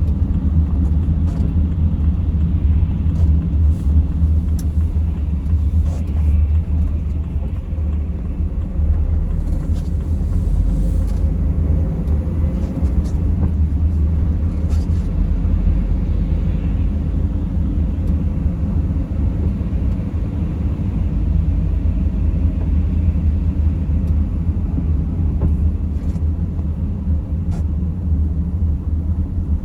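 A vehicle driving at steady speed: a continuous low engine and road rumble heard from inside the cabin.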